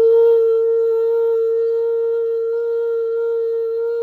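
A woman's voice holding one long, steady sung note as light-language toning. The note cuts in sharply and ends with a slight upward lift.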